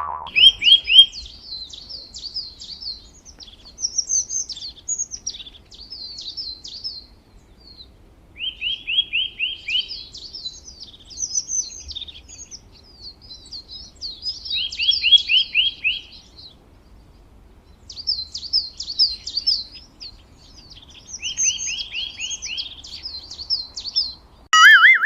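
Songbird singing: the same phrase repeats about four times, each a quick run of short falling notes with a long tumble of higher chirps and warbles. A different, loud sound effect cuts in at the very end.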